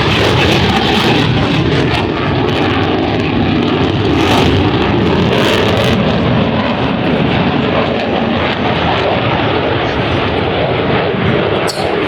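Loud, steady aircraft engine noise at an airshow, its high hiss thinning out about halfway through.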